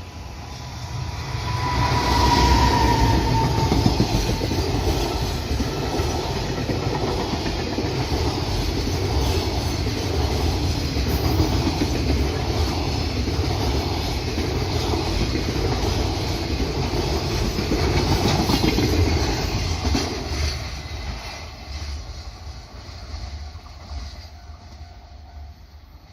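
Freight train passing, its wagons' wheels clattering over the rails. It swells within the first couple of seconds with a brief falling whine, runs loud and steady, then fades away over the last several seconds.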